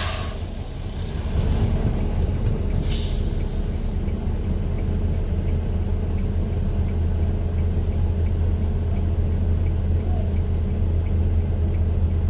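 A large vehicle's engine running with a steady low hum, with a short hiss of released air, like an air brake, about three seconds in. Faint regular ticking about twice a second runs under it.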